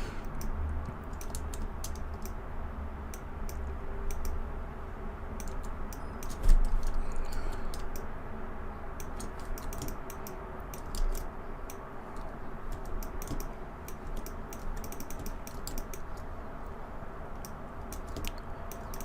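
Computer keyboard keys clicking irregularly in quick runs and single taps, over a steady low hum, with one louder low thump about six and a half seconds in.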